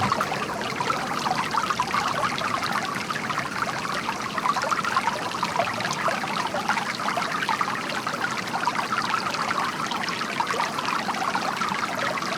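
Running water, such as a small stream flowing over rocks, with a steady, dense trickling.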